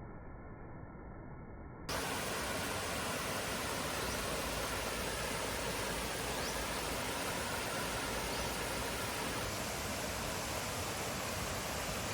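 Steady rushing of water from a waterfall. About two seconds in it jumps abruptly from muffled to louder and brighter, and then stays even.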